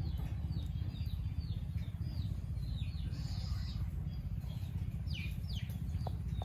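Small birds calling, a string of short high chirps that each drop in pitch, over a steady low rumble.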